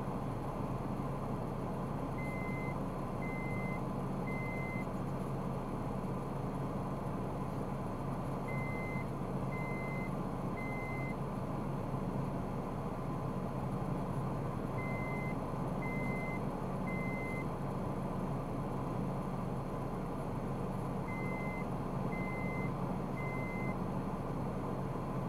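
High electronic beeps in sets of three, about a second apart, with each set repeating every six seconds or so. Under them runs the steady low hum of a vehicle's engine.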